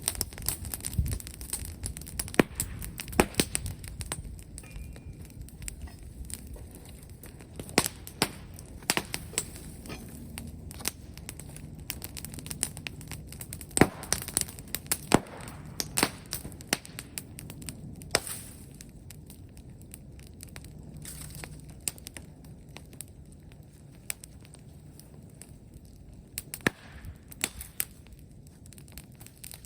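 Bonfire of brushwood and bamboo crackling, with sharp, irregular pops and snaps over a steady low rumble of the burning fire.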